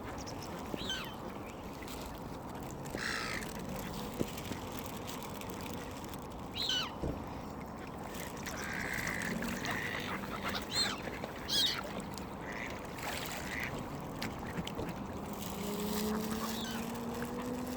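Waterbirds calling: scattered short quacks and squawks from ducks and gulls. Near the end a low drone comes in and rises slowly in pitch.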